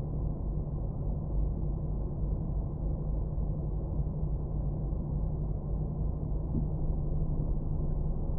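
A car's engine and tyres making a low, steady rumble with a faint hum, heard from inside the cabin through a dash cam's microphone.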